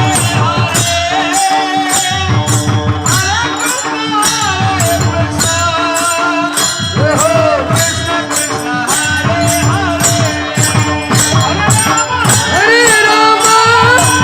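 Devotional kirtan singing: a solo voice sings an ornamented, gliding melody over a steady held drone, with metallic percussion striking an even beat about twice a second.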